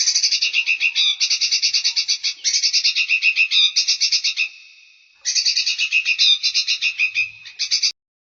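A songbird's rapid chattering trill, a fast run of high notes, sung in three long phrases with short breaks between them, stopping about half a second before the end.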